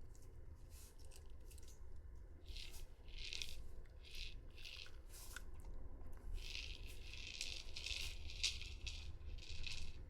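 A run of short crunching noises, a few a second at first, then crowding together into a near-continuous stretch over the last few seconds.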